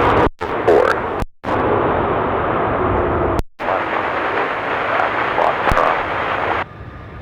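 Air-band scanner radio static: a harsh hiss that cuts in and out abruptly several times as the squelch opens and closes, with no clear words, then drops to a quieter hum near the end.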